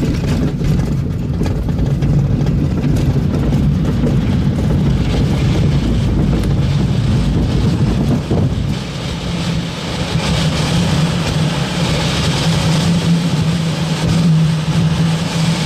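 Blaník glider on its takeoff run in strong wind: loud, rumbling airflow noise with a steady engine drone that becomes stronger about halfway through.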